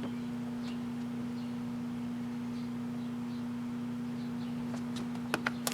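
Microwave oven running with a steady low hum, and faint scattered crackles from a plastic fidget spinner burning inside. Near the end a few sharp clicks come and the hum cuts off as the oven stops.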